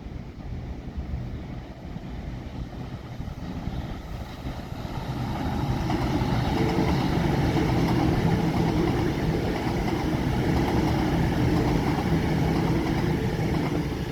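A passing train's engine, a steady hum that grows louder about five seconds in and stays loud, easing off slightly near the end.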